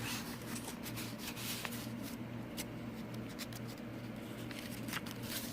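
Paper rustling and light crackling as the pages of a handmade journal are turned and handled, with a scatter of short ticks, over a low steady hum.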